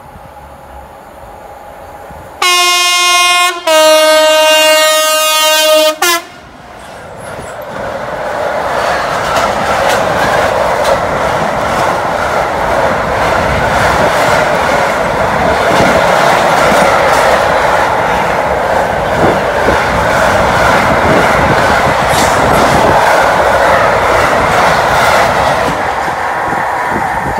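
A freight train sounds its two-tone horn, a higher note then a lower one, about three and a half seconds long. Then the train passes: wagons rattling and wheels clacking over the rails, building up and holding steady.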